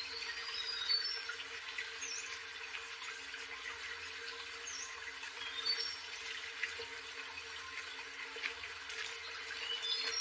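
Forest ambience: running water with short bird chirps and whistles scattered through it, over a steady low hum.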